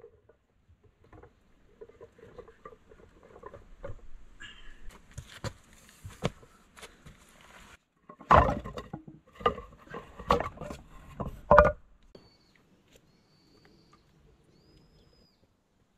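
Footsteps and rustling on earth and leaves as firewood is carried. Then, about eight seconds in, a run of loud wooden knocks as split logs are dropped and stacked on a woodpile. A few faint high bird chirps follow near the end.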